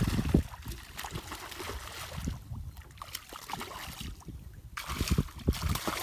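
Water sloshing and trickling around a small fishing boat, with a few short knocks about half a second in and twice near the end.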